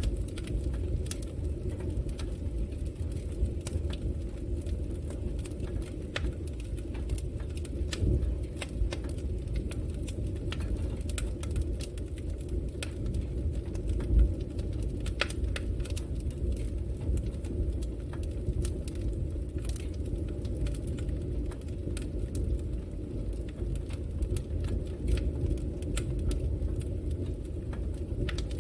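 Fire burning in a fireplace: a steady low rumble of the flames with frequent sharp crackles and pops, one louder pop about fourteen seconds in.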